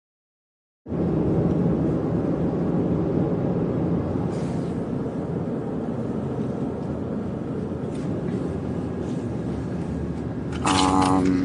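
Steady road and engine rumble inside a moving truck's cabin, starting abruptly after about a second of dead silence. Near the end a short, loud pitched tone cuts through.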